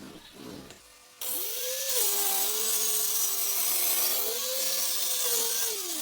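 Angle grinder in a sliding jig cutting through wood, starting abruptly about a second in. The loud cutting noise carries a motor whine that dips and recovers as the blade takes the load.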